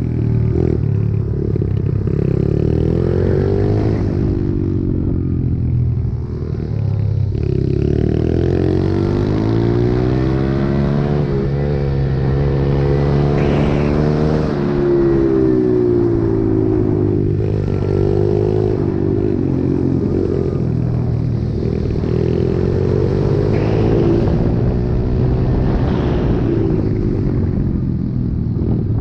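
Pit bike engine being ridden hard, its pitch climbing under acceleration and dropping back again and again, a rising-and-falling cycle every few seconds.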